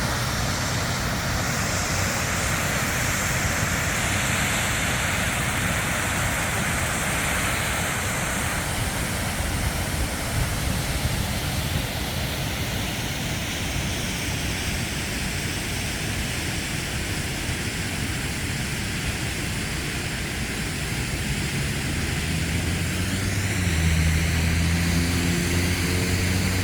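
Harley-Davidson Tri Glide trike under way: steady engine drone mixed with rushing wind on the microphone. A low steady hum grows a little louder near the end.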